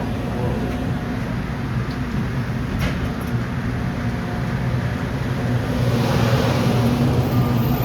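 Diesel commuter train pulling into the station: a steady low engine drone, with wheel and rail noise growing louder from about five and a half seconds in.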